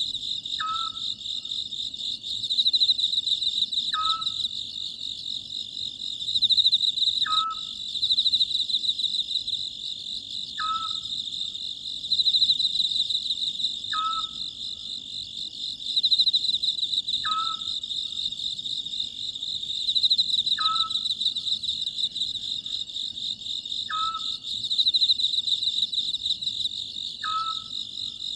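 Oriental scops owl calling, one short note with a quick downward slide repeated evenly about every three seconds, over a steady, dense chirping chorus of crickets.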